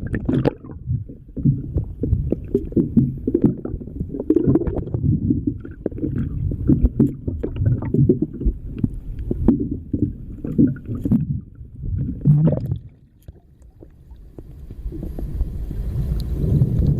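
Muffled water sloshing and knocking around a kayak, heard through a camera held below the surface. The sound is an irregular low rumble with small knocks. It drops away for about a second near the end, then a steady rushing sound builds.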